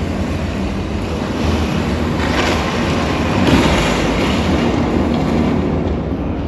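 Loud rumbling wash of noise like surf or wind, with a strong low rumble and swells about two and a half and three and a half seconds in: sound effects from the cave's light-and-sound show soundtrack.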